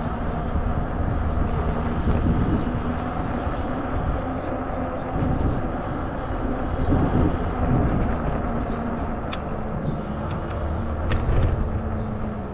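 Riding noise from a 20-inch fat-tire e-bike: steady tyre rumble and wind buffeting the handlebar-mounted camera's microphone, with a faint steady hum underneath. Two sharp ticks come near the end.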